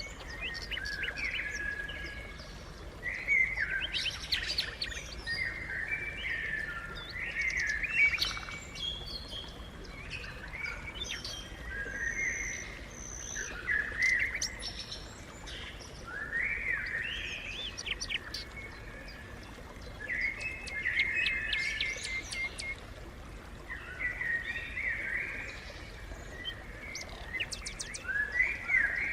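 Sparrows chirping, several at once, in busy overlapping bouts with short pauses between.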